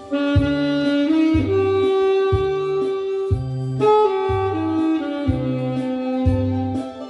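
Saxophone playing a slow melody in long held notes over an accompaniment track with a low bass note about once a second.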